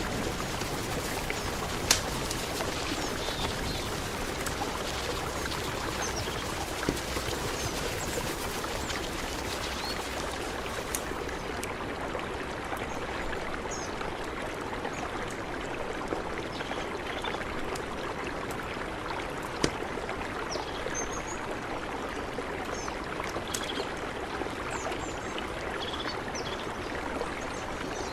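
Mountain river flowing steadily, an even rush of water, with a few sharp clicks and faint short high chirps over it.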